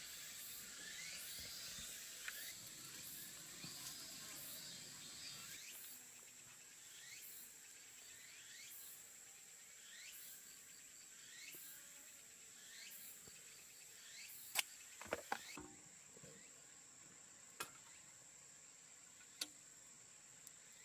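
Faint insect calls: a steady high-pitched trill with short chirps and falling calls repeating about every one and a half seconds. Several sharp clicks or snaps come in the last third.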